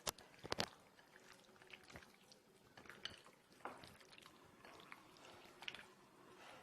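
Hands mixing raw chicken pieces with yogurt for a marinade: faint wet squelching and a few sharp clicks, the loudest clicks near the start.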